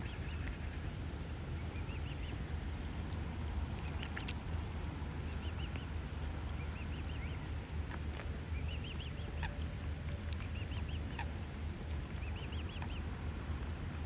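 A bird calling in short, rapid runs of rising-and-falling peeps, repeated every couple of seconds over a steady low rumble.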